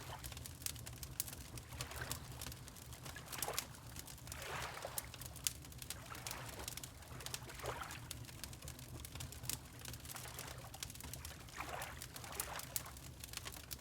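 Wood fire crackling with frequent sharp pops over a low steady rumble, mixed with water lapping in soft swells every two to four seconds.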